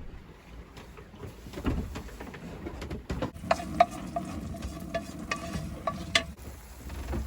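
Eggs frying in a pan, with scattered clinks and knocks of a utensil against the pan, some of them ringing briefly in the middle.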